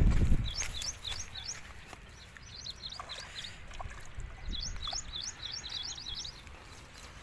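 Small birds chirping in quick clusters of short, high, down-slurred notes, repeated again and again. A brief low rumble at the very start.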